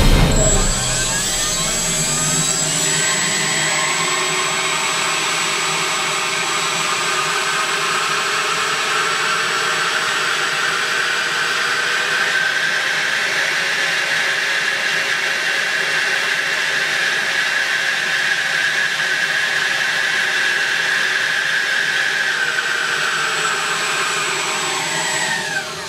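4500KV brushless RC jet motor spinning its fan at high speed: a jet-like whine over a rush of air. The pitch rises as it spins up at the start, holds steady, then falls as it winds down near the end.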